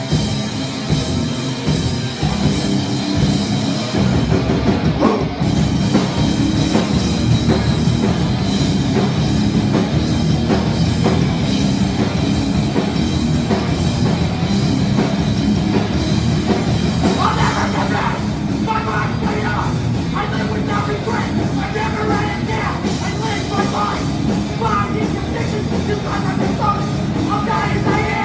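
A live hardcore punk band playing loud: distorted guitars, bass and a drum kit. About two-thirds of the way through, vocals come in over the music.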